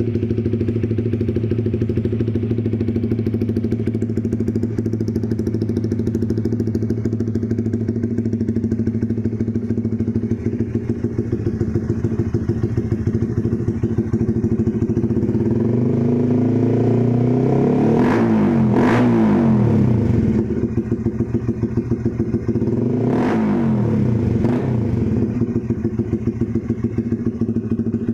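Honda CBR motorcycle with a Proliner can-type aftermarket racing exhaust idling steadily. About halfway through it is revved once, the exhaust note rising and falling back over a few seconds, and a few seconds later it is blipped again more briefly.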